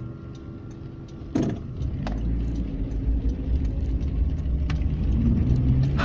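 A sharp knock, then a steady low vehicle engine rumble that sets in about two seconds in and grows a little louder.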